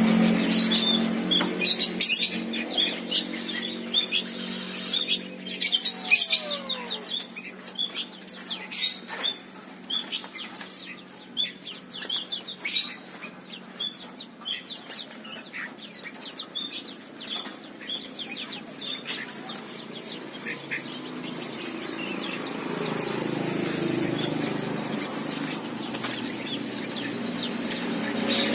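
Small songbirds giving many short, high chirps and calls, with bursts of wings fluttering. A steady low hum is under the first few seconds and comes back near the end.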